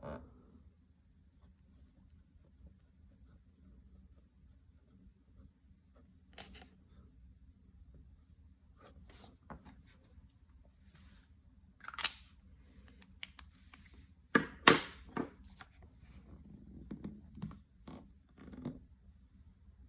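Scattered light clicks and taps of small hard objects being handled, with a sharper knock about midway and a louder cluster of knocks a few seconds later.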